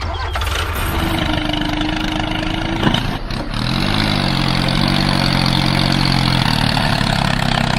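Tractor engine running with a low rumble; about four seconds in its pitch rises, as if revving up, and then holds steady.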